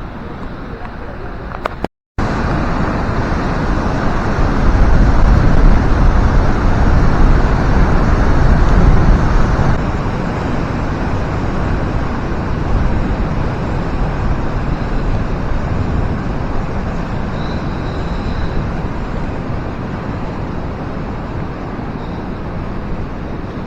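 Steady loud roar of the Handeck waterfall rushing below the bridge, mixed with wind buffeting the microphone. It cuts in after a brief break about two seconds in and is loudest for several seconds, then eases slightly.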